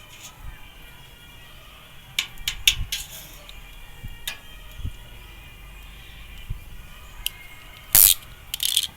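Clicks, clinks and knocks of a bottle and the honey extractor being handled, with a loud short clatter about eight seconds in and another near the end, over faint background music.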